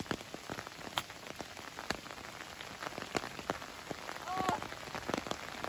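Heavy rain falling steadily, with many individual drops ticking sharply close to the microphone.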